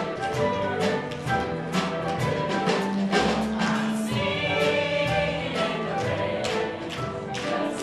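A stage musical number: a chorus singing with instrumental accompaniment, with sharp percussive beats running through it.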